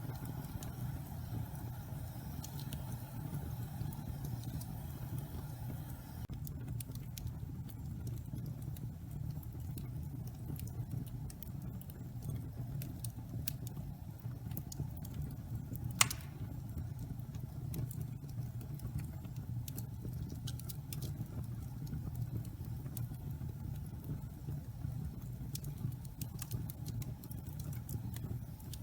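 Wood fire burning in a fireplace: a steady low rumble with scattered crackles from damp pine logs, and one sharp loud pop about halfway through.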